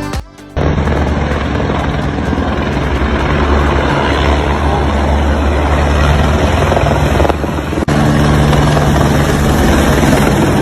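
A loud, steady mechanical drone with a low hum, starting abruptly about half a second in, after a brief stretch of music; it drops out for an instant about three-quarters of the way through, then carries on.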